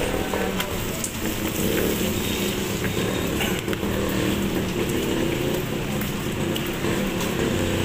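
Wet city street in light rain: a steady patter of rain with motor traffic running, a few small drip clicks.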